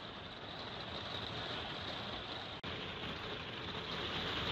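Heavy rain falling on a motorhome's roof and windows, heard from inside as a steady hiss. There is a brief dropout about two and a half seconds in, then the same hiss carries on.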